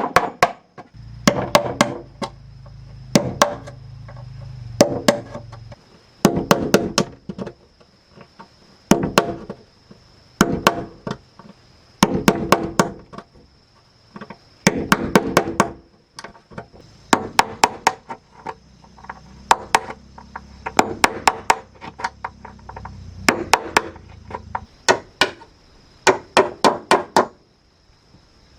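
A hammer driving nails into wooden boards, in repeated bursts of two to five quick blows, each blow ringing briefly.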